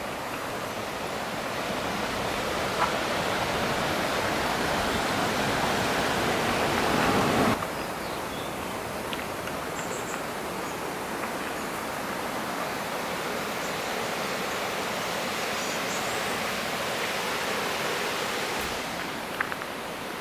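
Rushing water of a mountain stream, a steady hiss-like roar. It grows louder up to about a third of the way in, then drops suddenly to a slightly softer, steadier rush.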